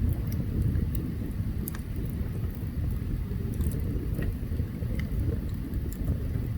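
Open campfire burning, with scattered sharp crackles and pops from the burning wood over a steady low rumble.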